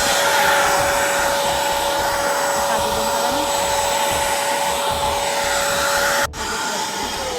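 Vacuum cleaner running steadily with a whining motor tone, cleaning a car's interior. Near the end the motor is switched off and its whine falls as it spins down.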